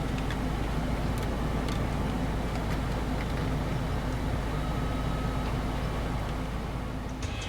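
Mini Cooper S turbocharged 1.6-litre four-cylinder idling, a steady low hum heard inside the cabin, with a few faint clicks of controls being handled.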